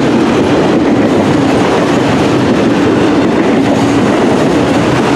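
A mixed freight train rolling past at close range, steel wheels running on the rails, a steady loud rumble with a constant hum underneath.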